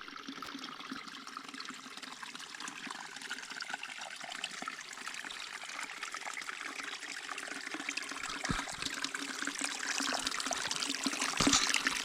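Running water trickling, growing gradually louder toward the end, with a couple of brief knocks.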